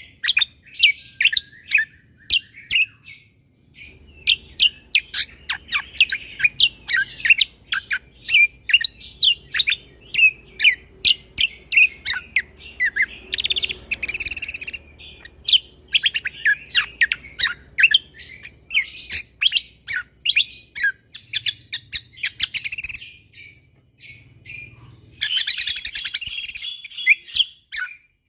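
Cucak kombo (kecial kombo) singing in long, rapid strings of sharp, high chirps packed closely together, broken by a few short pauses. A faint low hum lies underneath from a few seconds in.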